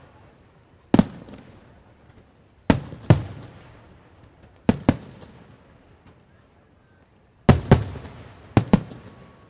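Fireworks going off in sharp booms, about nine in all, several in quick pairs, each followed by a rumbling echo that dies away.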